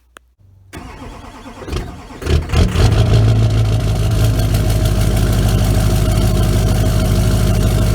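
Cold start of a 2002 LB7 Duramax 6.6-litre turbo-diesel V8 with a 5-inch exhaust: a click, then the starter cranking from just under a second in, the engine catching about two seconds in and settling into a loud, steady idle.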